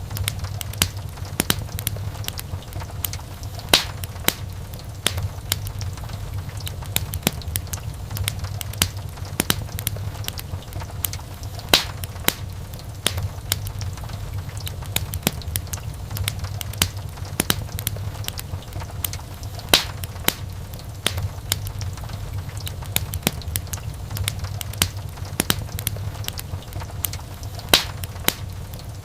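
Wood fire crackling in a fireplace: many small sharp crackles over a low steady rumble, with a louder pop about every eight seconds.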